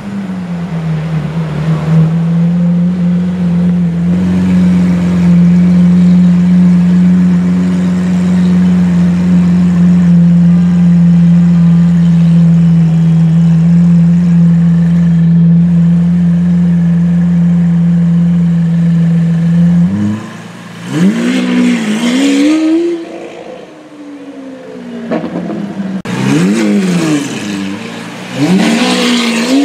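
Lamborghini Aventador's V12 running at a steady, loud engine speed close by. About twenty seconds in it is revved hard several times in quick succession, the pitch climbing and dropping with each blip as the car moves off.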